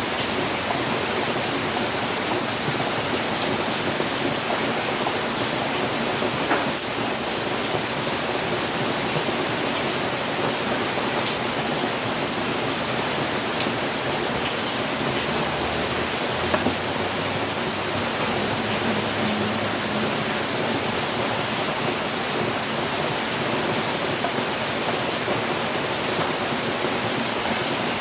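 Steady rain falling on a house roof: an even, unbroken hiss with a few sharper drop clicks, one about six seconds in and another about sixteen seconds in.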